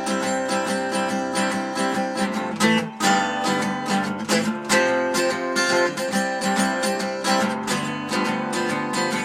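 Instrumental break of a country-style song: strummed acoustic guitar with a steady rhythm, no singing.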